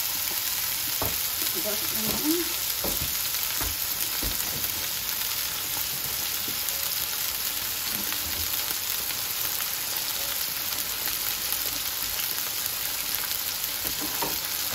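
Food frying in hot oil: chips bubbling in a pan of oil and chicken burger patties sizzling in a frying pan, a steady crackling hiss. A few light knocks come in the first few seconds.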